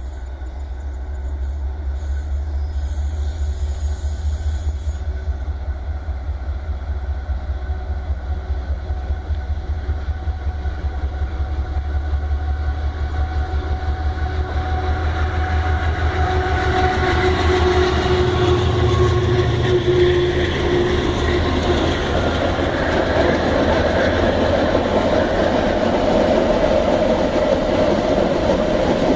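Iron-ore freight train with three diesel-electric locomotives approaching. A low pulsing engine rumble dominates at first, then the sound grows steadily louder from about halfway through as rail and wheel noise builds.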